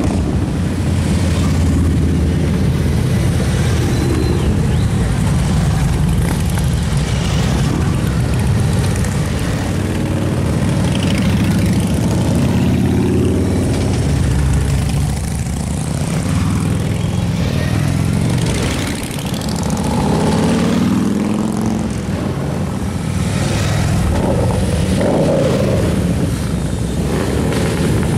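Motorcycles riding past in a steady stream, their engines a continuous low rumble that swells and eases as bikes come and go.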